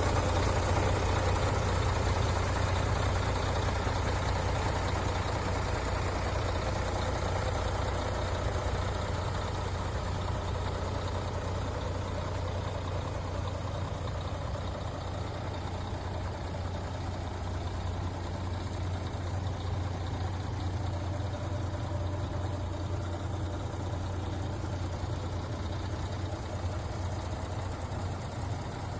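MAN TGA 26.460 tractor unit's inline-six diesel idling steadily, growing gradually fainter over the stretch.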